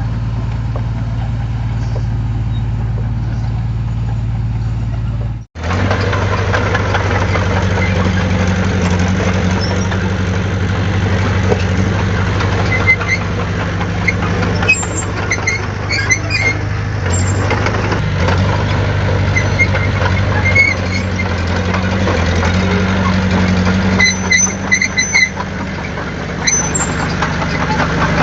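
Heavy diesel engine of earthmoving machinery running steadily. It cuts out suddenly about five seconds in and comes back with more clatter. Short high squeaks come and go over it in the second half.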